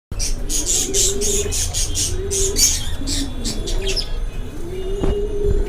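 Budgerigars chirping and chattering in a quick run of high notes that fades out about four seconds in. Underneath, a low cooing call rises and falls every second or so, and there is a single click near the end.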